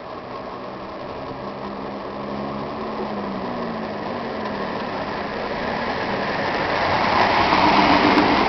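Red electric commuter train running into the station platform to stop, growing steadily louder as it comes alongside, with a low motor whine that slides in pitch as it slows.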